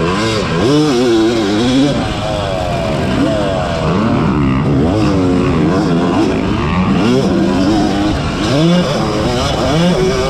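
Yamaha YZ250 two-stroke motocross engine running hard, its pitch rising and falling every second or so as the throttle is worked and the gears change.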